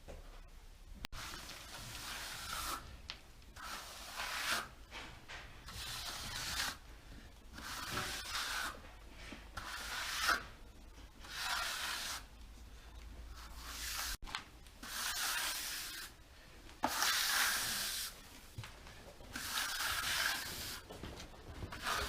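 Trowel spreading cement render on a wall, about a dozen rubbing, scraping strokes, roughly one every second or two.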